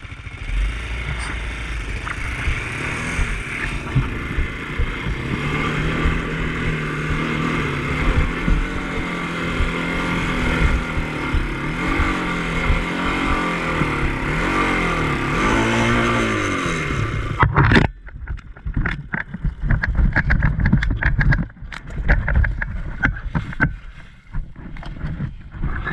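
Off-road vehicle engine lugging under load on a muddy climb, its pitch wavering up and down, then cutting out abruptly about seventeen seconds in. Scattered knocks and rattles follow as the machine stops climbing and starts rolling back.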